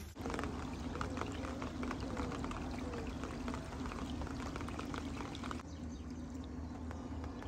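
Rain falling on the still water of a canal, many small drops landing in quick succession over a steady low hum. About five and a half seconds in, the sound turns softer, with less of the sharp, bright drop noise.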